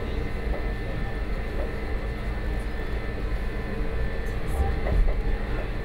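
Electric cog railway train running uphill: a steady low rumble of wheels and drive with a thin steady whine above it, and a couple of knocks near the end.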